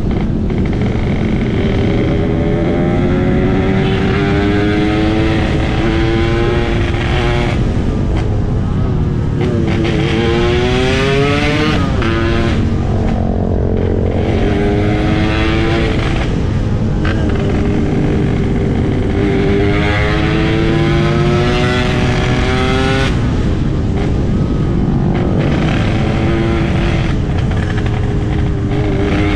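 Yamaha RX-King 135cc two-stroke motorcycle engine under way, accelerating again and again: its pitch climbs steadily and drops sharply at each gear change, about four times.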